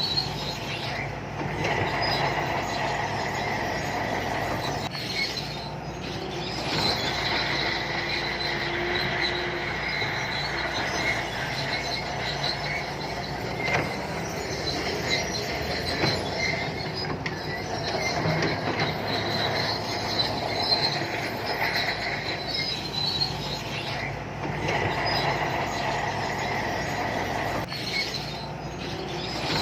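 Shantui crawler bulldozer working, its diesel engine running under a steady squealing and screeching from the steel tracks and undercarriage. The squeal rises and falls in strength as the machine moves.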